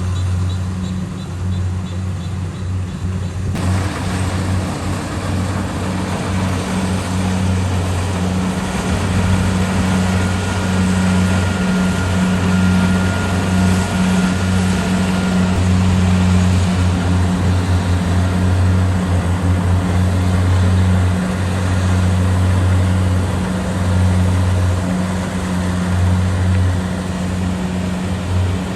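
Kubota DC70 Pro combine harvester's diesel engine running steadily with a deep, even drone. About three and a half seconds in, a broad machinery noise joins it and grows louder.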